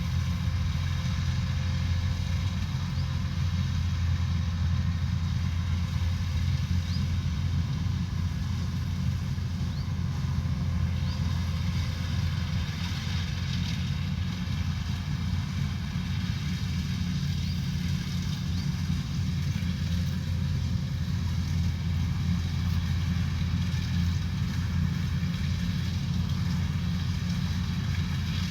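Combine harvester running steadily, its engine a constant low hum with no change in pitch.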